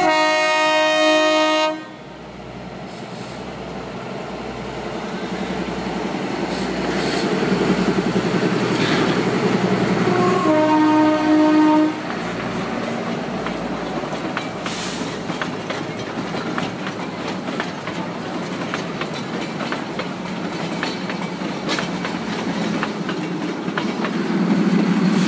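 Narrow-gauge diesel toy train of the Matheran hill railway passing close by: its horn sounds at the start and once more about ten seconds in, over a building rumble. The coaches then roll past with the wheels clicking over the rail joints, and the locomotive's engine grows louder near the end as it draws level.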